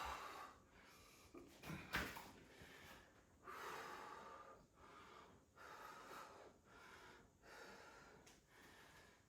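A woman breathing hard and rhythmically while exercising, about one breath a second, with a short sharp sound about two seconds in.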